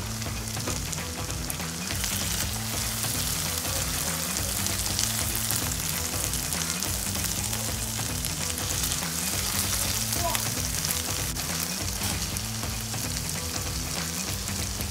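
Grated bottle gourd halwa frying in ghee in a nonstick pan, the ghee sizzling steadily as it separates and bubbles at the edges near the end of cooking. Faint background music runs underneath.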